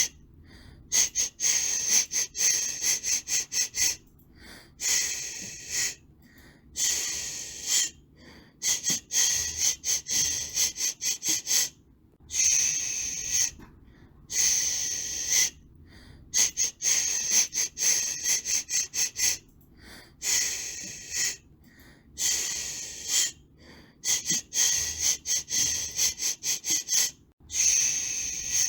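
Rhythmic hissing 'shh' white noise for soothing a baby: one long shush followed by a quick run of short ones, repeating every few seconds.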